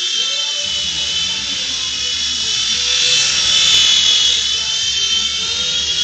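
Small toy RC helicopter's electric motor and rotors whining at a steady high pitch in flight, swelling louder about halfway through.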